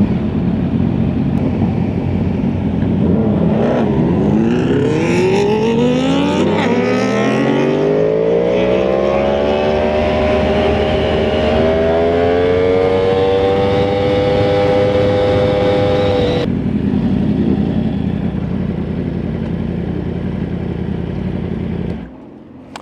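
Sport motorcycle engine accelerating, its pitch climbing steadily for several seconds and then holding; the throttle is shut suddenly past the middle and the engine falls back to a lower steady sound before going quiet near the end. The bike is in D riding mode, which left it unwilling to pull.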